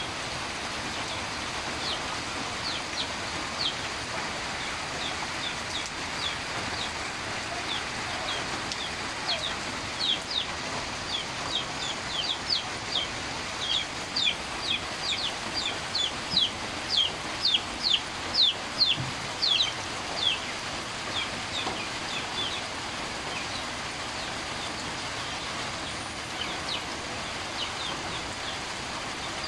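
Steady rain falling on rainforest foliage. Over it an animal calls in a long series of short, high, falling chirps that come faster and louder towards the middle and stop about two-thirds through, with a few more near the end.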